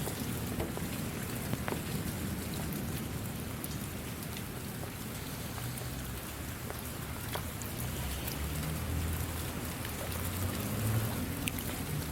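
Steady rain falling, with scattered individual drops striking close by. A low rumble swells in the second half.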